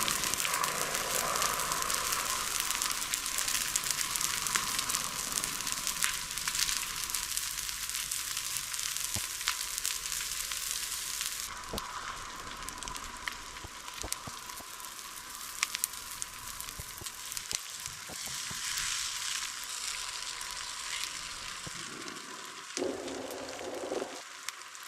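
Forest fire burning through vegetation, crackling with many sharp pops over a steady hiss.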